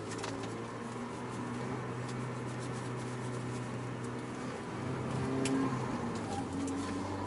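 Renault Megane RS 225's turbocharged four-cylinder engine, fitted with a Milltek downpipe and cat-back exhaust, running steadily at low revs. It rises slightly about five seconds in, with a few light clicks over it.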